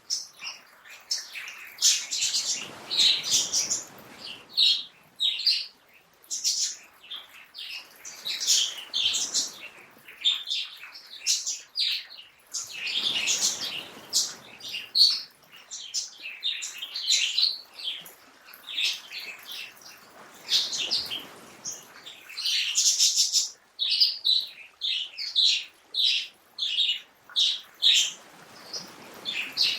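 Songbirds chirping and singing in quick, overlapping high calls. A soft wash of noise swells underneath now and then.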